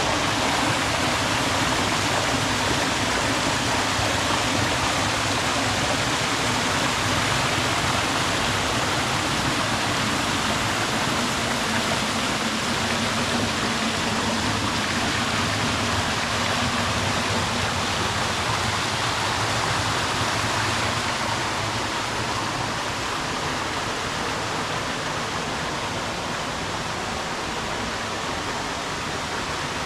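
Waterfall's rushing water, a steady, even roar that eases a little after about twenty seconds.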